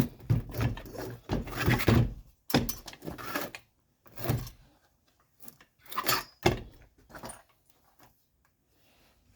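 Small metal engine parts and hand tools clattering and knocking on a workbench as a part is taken apart: irregular rattles and knocks, the busiest in the first three seconds, then sparser.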